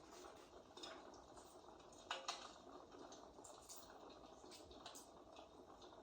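Faint fireplace crackling: a soft steady hiss with scattered pops and snaps, the loudest a quick pair about two seconds in.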